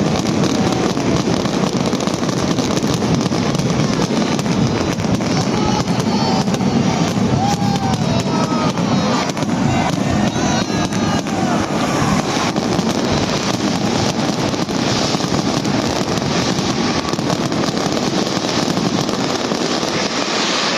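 Fireworks bursting and crackling in a continuous barrage of many overlapping bangs.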